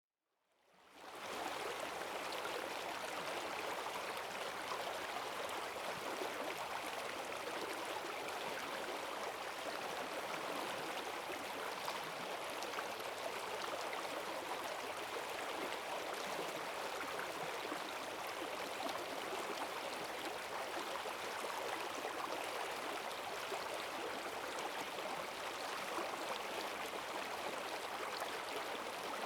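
Forest stream swollen by heavy rain, rushing water running strongly and steadily. It fades in over about the first second.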